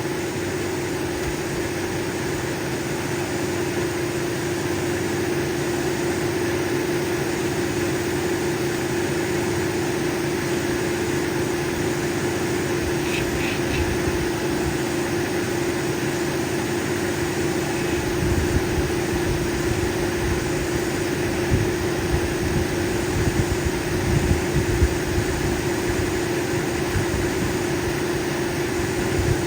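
Cabbing machine running with a steady hum while an opal cabochon is polished on its cerium oxide pad. From about two-thirds of the way in come irregular low knocks and rubbing as the stone is worked.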